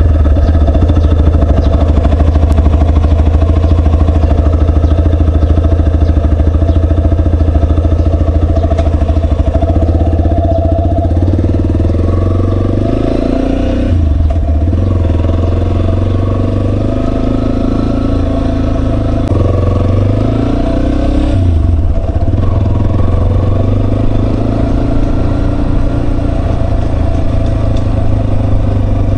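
Yamaha Serow 250's single-cylinder engine running steadily under way. The engine note drops off briefly about halfway through and again about three quarters through, then picks up again.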